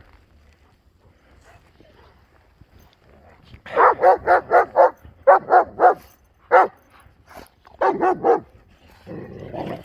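Dog barking in quick runs of short barks, about five in a row, then three, one and three more, beginning a few seconds in.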